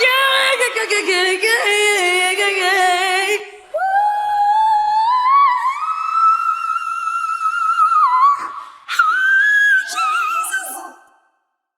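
A female voice singing a cappella through an isolated live vocal mic feed. It opens with a fast melismatic run with vibrato, then a long held note that climbs in small steps, then one last short, higher phrase. It cuts to silence shortly before the end.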